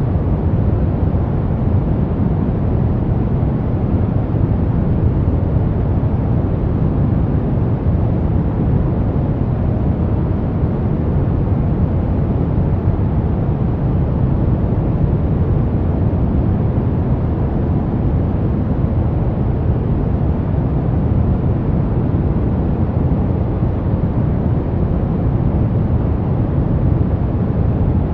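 Brown noise: a steady, unchanging deep hiss, strongest in the low end and fading away toward the highs.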